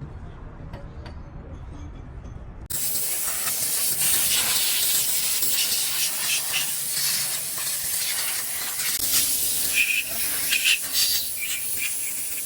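A loud, steady hiss of a pressurised jet of gas or air, starting suddenly a few seconds in after a low rumble, with a few short louder spurts near the end.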